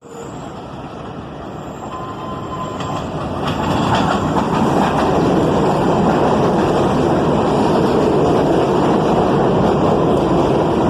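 NYC Subway train approaching, its rumble growing louder over the first four seconds, then running by loud and steady, with a brief wheel squeal near the start of the loud part.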